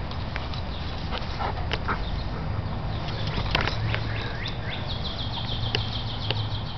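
A bird sings a fast trill of short, repeated high falling notes in the second half, over a low rumble with scattered sharp clicks.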